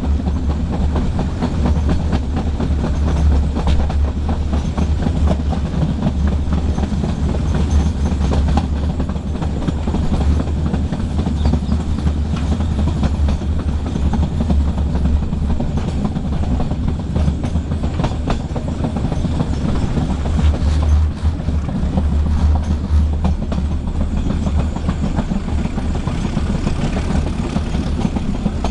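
Metre-gauge train running steadily: a continuous low rumble with wheels clicking over the rail joints.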